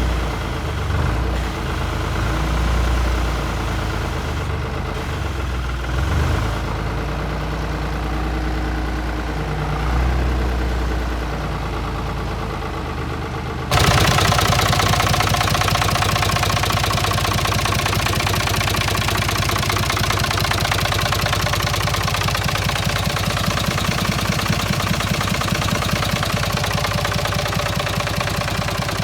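Diesel engine of a Heden FC1340 truck running, low and uneven at first. About halfway through it changes suddenly to a louder, steady, even idle.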